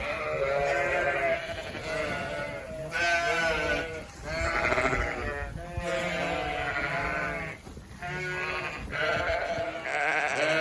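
A flock of sheep bleating, many calls overlapping one after another with only brief pauses.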